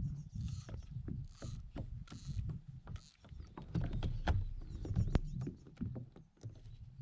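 Knocks and clicks on a kayak hull, with a few short splashes of water in the first couple of seconds.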